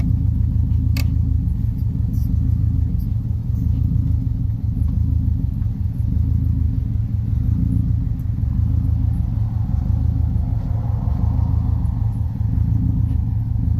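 Swapped-in 2-litre Subaru WRX engine running steadily, a deep low drone that holds the same pitch, with a single click about a second in.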